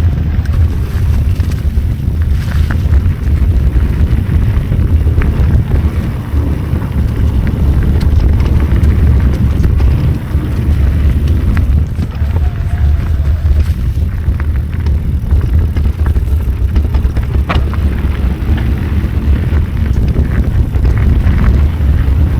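Mountain bike riding a trail, heard as loud, steady wind buffeting on the microphone over tyre rumble, with scattered small clicks and rattles.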